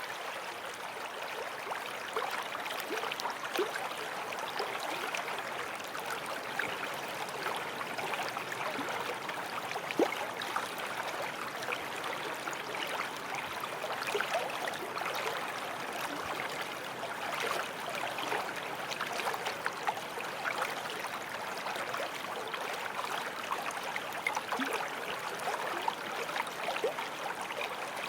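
Forest stream flowing and babbling over stones, a steady rush of water with small splashes and gurgles throughout.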